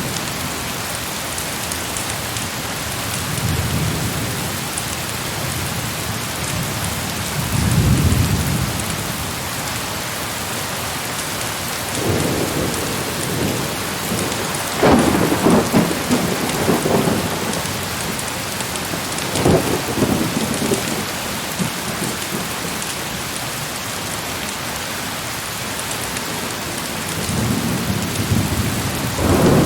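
Heavy rain pouring steadily, with rolls of thunder rumbling several times. The loudest, sharpest peal comes about halfway through, and another roll builds near the end.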